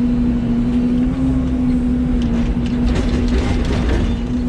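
Excavator's diesel engine running with a steady hum, with a quick run of clanks and rattles about two seconds in as the machine handles the junk.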